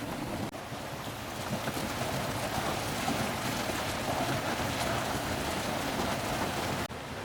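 Steady rushing noise of water, dropping out briefly about half a second in and again near the end.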